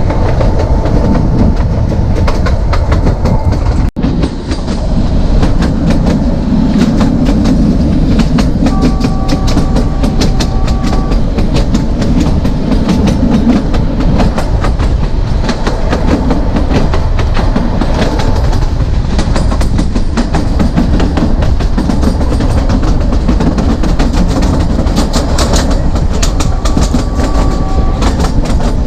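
Narrow-gauge passenger train running along the track, heard from on board: a steady rumble with the clickety-clack of the wheels over rail joints. The sound drops out for an instant about four seconds in.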